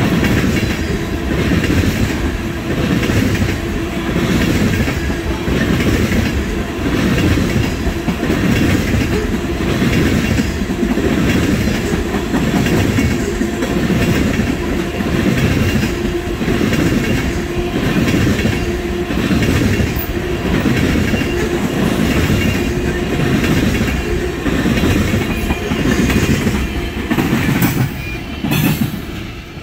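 Oil-train tank cars rolling past close by, their wheels clacking over rail joints in a steady, even rhythm of about one beat a second. The sound eases off slightly near the end.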